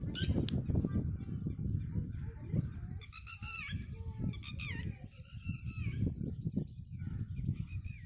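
Birds calling: a few short high chirps near the start, then a run of pitched calls that bend up and down from about three to five seconds in, over a low, uneven rumble.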